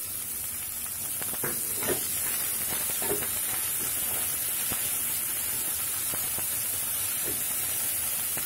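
Chopped onion, parwal seeds and crushed ginger-garlic frying in oil in a kadhai, a steady sizzle, stirred with a wooden spatula that scrapes faintly now and then.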